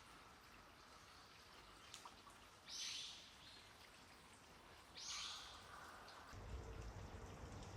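A bird calling twice, about two seconds apart, each a short harsh call, over faint outdoor background; a low rumble comes in near the end.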